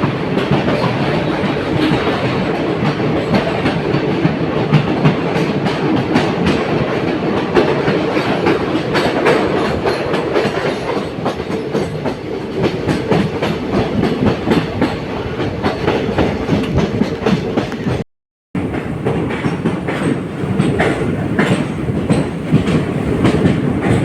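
ICF passenger coaches running on the track: a steady rumble with a fast, irregular clatter of wheels over rail joints. The sound cuts out for a moment about eighteen seconds in, then resumes.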